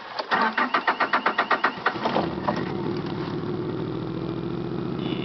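Nissan Pulsar engine being cranked by the starter in a quick, even chugging for about a second and a half. It catches about two seconds in and settles into a steady idle on a cold start.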